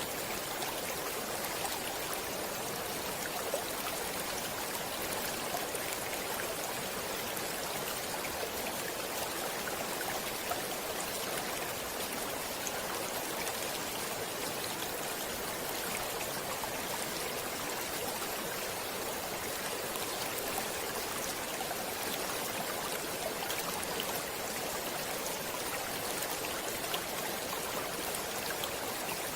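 Shallow stream water flowing steadily over stones, a continuous hiss-like rush with small scattered splashes and drips.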